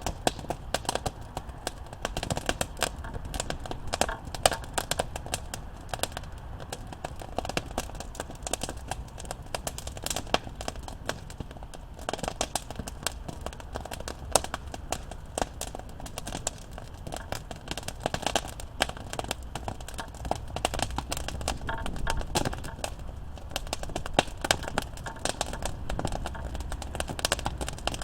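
Campfire of burning wood crackling steadily, with frequent irregular sharp pops and snaps over a low rumble of the flames.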